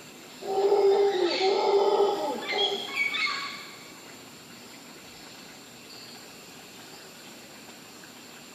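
Mantled howler monkey calling once for about three seconds, a loud pitched, wavering cry that starts about half a second in and ends with a few higher notes.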